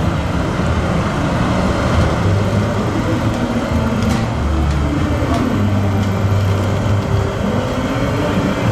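Fire engine's engine running and pulling along, mixed with road traffic noise; the engine note rises and falls slightly.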